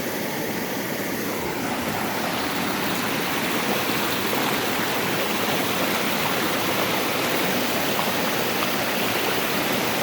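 Rushing water of a waterfall and stream, a steady, even rush.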